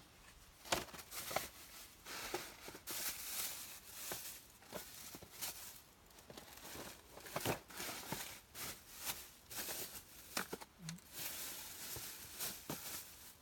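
Irregular rustling, crinkling and small snaps of dry tinder and kindling being handled and broken, with a couple of longer rustles about three seconds in and near the end.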